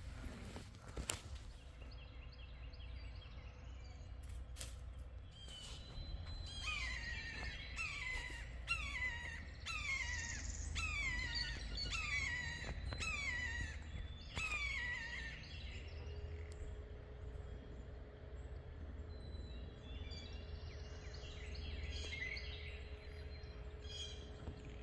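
A hawk calling overhead: a run of about a dozen descending screams, a little more than one a second, starting about six seconds in and stopping about fifteen seconds in. Underneath runs a steady low hum from a water treatment plant.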